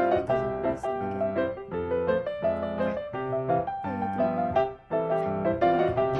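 Piano music, a melody of short notes, breaking off for a moment about three-quarters of the way through.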